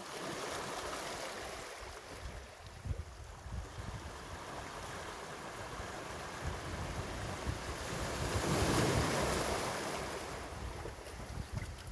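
Sea waves washing onto the shore, one wave swelling to its loudest about eight to nine seconds in and then easing off. Wind buffets the microphone with an uneven low rumble.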